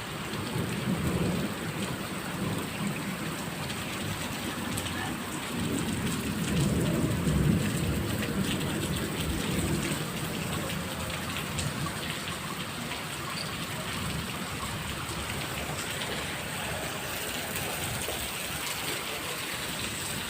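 Heavy rain pouring down in a steady hiss, with low rumbling swells about a second in and again from about six to ten seconds in.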